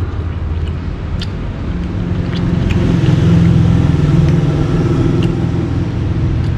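A motor vehicle's engine running close by with a low, steady hum that grows louder about two seconds in, with a few light clicks over it.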